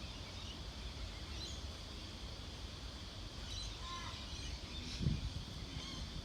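Outdoor ambience: small birds chirping here and there over a steady low rumble, with one soft thump about five seconds in.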